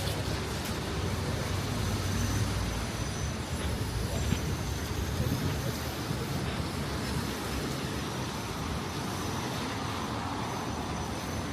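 City street traffic: a steady low rumble of vehicles passing, with no single event standing out.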